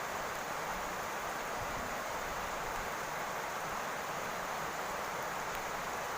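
Steady rain falling on a roof, an even hiss of many drops with no let-up.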